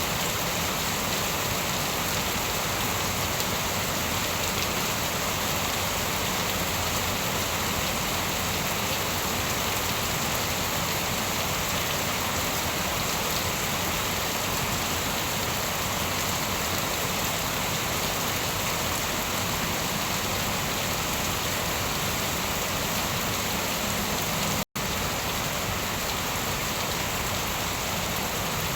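Steady, heavy rain falling in an even hiss, with no thunder. It cuts out for an instant about 25 seconds in, then carries on unchanged.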